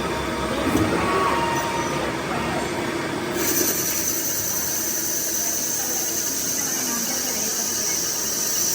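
Workshop machinery running in a metalworking shop, with a steady high-pitched whine and hiss that starts about three seconds in and cuts off at the end.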